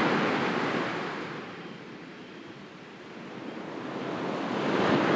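Sea waves on a shore: the surge of one wave fades away, then the next swells in and breaks near the end.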